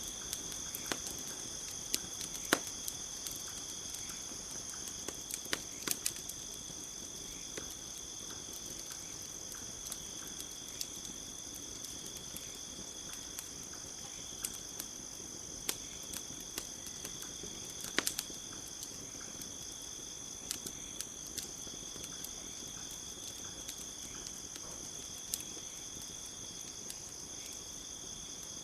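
Campfire crackling, with scattered sharp pops at irregular intervals, over a steady high chirring of crickets.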